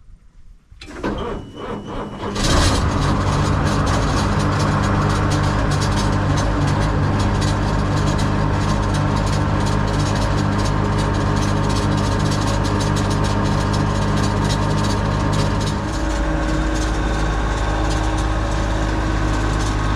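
An engine is cranked for about a second and a half, catches, and runs steadily at a fast idle; its note shifts lower about sixteen seconds in.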